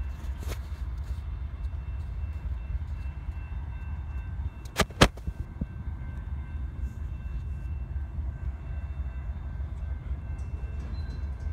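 Freight train of autorack cars rolling past: a steady low rumble, with two sharp knocks about five seconds in.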